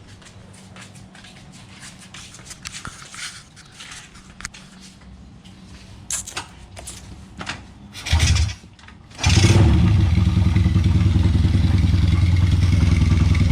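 Honda Revo underbone motorcycle converted to a two-cylinder engine with a single carburettor, being started: a few light clicks and handling noises, a short burst of cranking about eight seconds in, then the engine catches about nine seconds in and idles steadily with an even low beat.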